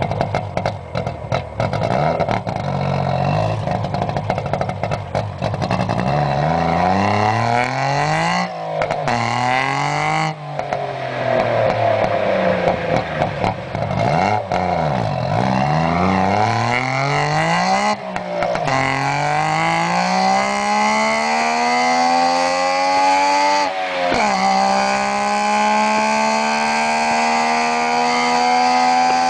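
Three-cylinder car engine revving, its pitch rising and falling several times. It then accelerates with a long rise in pitch, drops suddenly about three-quarters of the way in, and climbs again.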